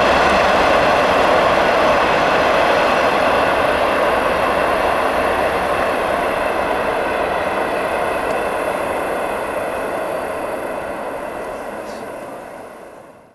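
Ore train rolling past on the rails, a steady wheel-and-rail noise with a faint ringing tone in it that slowly fades, then cuts off suddenly at the end.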